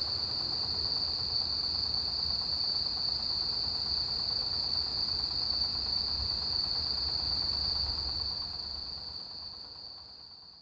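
Autumn grass insects (crickets) chirring in a steady high trill, with a second, higher insect pulsing about twice a second over it. The chorus fades away over the last two seconds.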